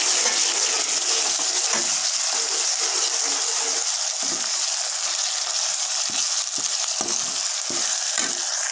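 Onions and ginger-garlic paste sizzling in hot oil in a metal kadai, a steady frying hiss, while a steel ladle stirs and scrapes the pan with several short knocks in the second half.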